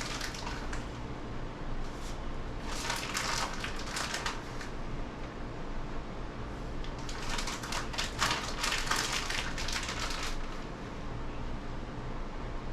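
Plastic bag of shredded cheese crinkling and rustling in two spells as cheese is shaken out over the top of a casserole.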